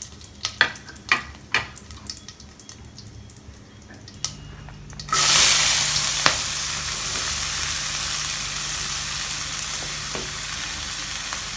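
Hot oil in a pan with crushed cumin and asafoetida: a few sharp ticks and pops at first, then about five seconds in a sudden loud sizzle as more ingredients go into the oil, settling into a steady frying sizzle.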